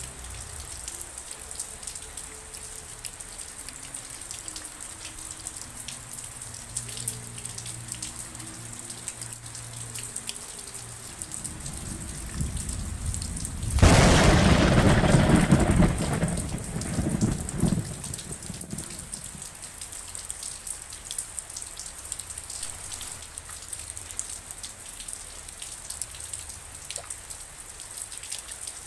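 Steady rain falling, with fine drop ticks throughout. A low rumble of thunder swells, breaks into a loud clap about halfway through, and rolls away over a few seconds.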